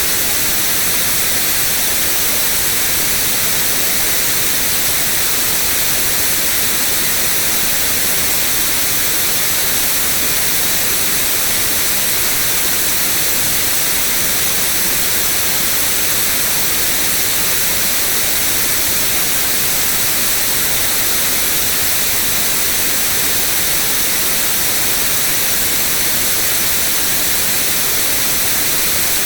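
Steady white noise: an even, unchanging hiss, brightest in the treble, with no variation or events.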